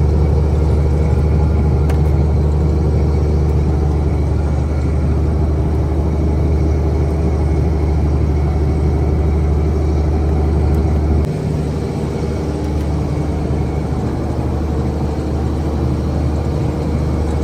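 Fishing boat's engine running steadily with a deep hum; about eleven seconds in the hum drops noticeably in level and carries on lower.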